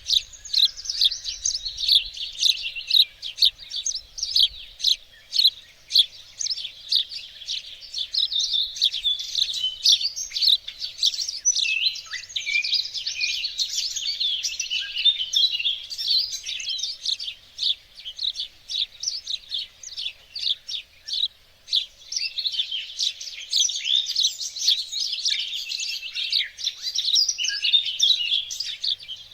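Several songbirds singing together: a dense, unbroken run of overlapping high chirps and trills. In the first few seconds short, sharp chirps repeat a couple of times a second; later the song thickens into faster, tangled trills.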